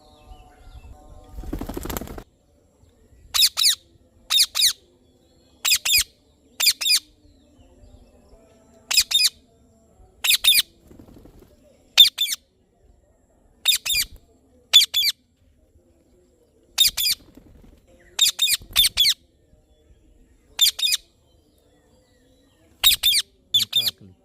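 Indian ringneck parrot giving short, sharp high-pitched calls, often two in quick succession, every second or two. A brief rustle, like flapping wings, comes about two seconds in.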